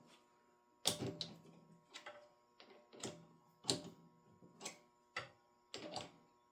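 A series of sharp metallic knocks and clicks, about one or two a second at an uneven pace, from an aluminum rod being handled and set in a mini metal lathe.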